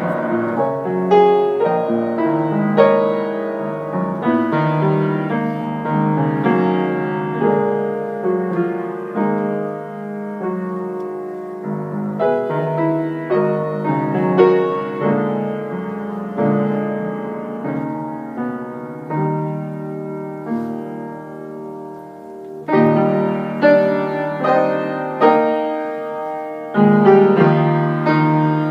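Piano music, single notes and chords struck one after another; it softens a little past the middle, then grows louder again for the last few seconds.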